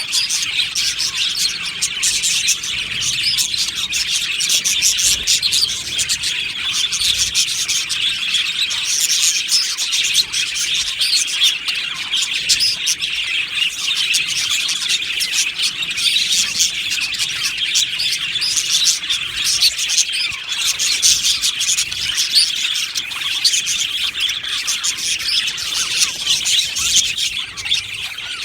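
A flock of budgerigars chirping and warbling together, a dense, continuous high chatter with no pauses.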